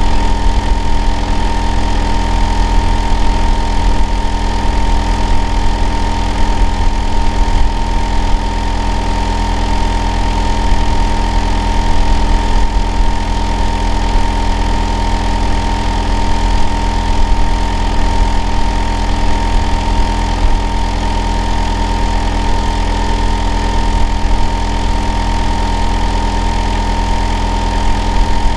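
Hitachi air-conditioner outdoor unit running in heating mode: a steady low droning hum with a constant whine just under 1 kHz, loud and unchanging throughout.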